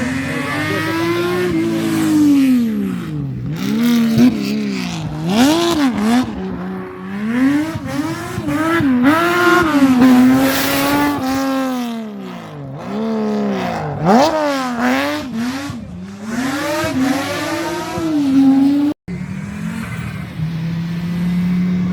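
Rally car engine revving hard and falling away again and again, with quick rises and drops in pitch as it shifts gear and lifts off through corners. About 19 s in it cuts off abruptly and another engine comes in, running at a steadier, slowly falling pitch.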